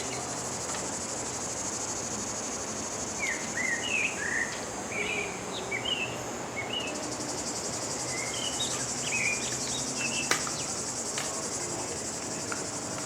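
Steady high-pitched insect chorus, with a bird giving short chirping calls in two spells, and a single sharp click about ten seconds in.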